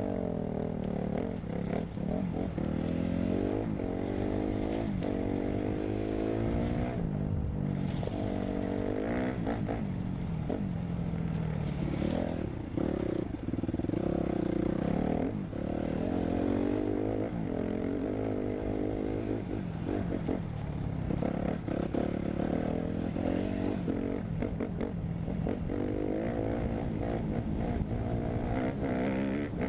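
Dirt bike engine revving hard, its pitch climbing and dropping over and over as the rider twists the throttle and runs through the gears.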